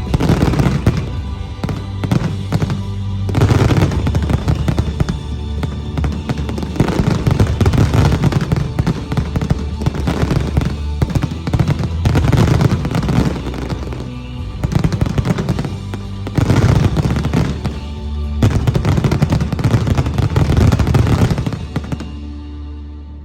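Finale barrage of fireworks: dense, rapid bursts and crackling in waves over a music soundtrack, dying away about a second before the end.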